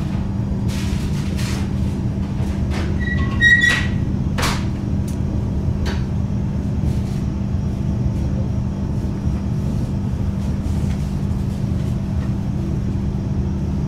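Steady rumble and low hum inside the cabin of a Frecciarossa 1000 high-speed train running along the track, with scattered faint clicks and a brief high chirp about three and a half seconds in.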